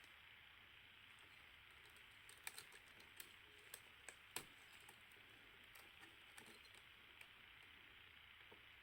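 Near silence over a steady hiss, with a handful of faint, small clicks and taps bunched about two to four and a half seconds in and a few more later: a camera's small parts and screws being handled with tools during disassembly.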